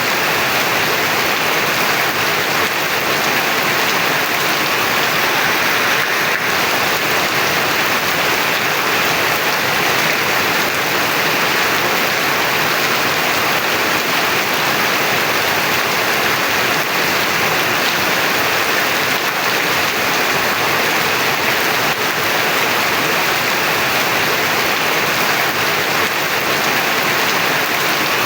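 Heavy rain pouring steadily: a dense, even hiss of downpour with no breaks.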